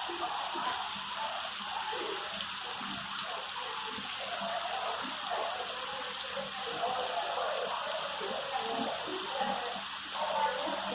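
Steady hiss of falling rain, the rainforest exhibit's storm shower.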